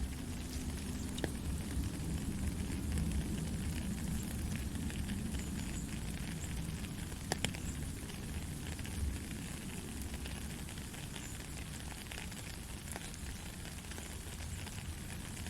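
Soft rain falling steadily: a continuous hiss over a low rumble, with a few sharper drop ticks now and then.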